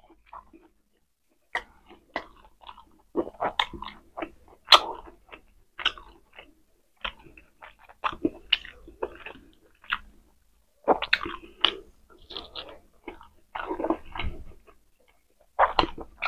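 Close-miked mouth sounds of a person eating rice and pork steak: chewing with wet smacks and clicks in irregular clusters, broken by a few short pauses.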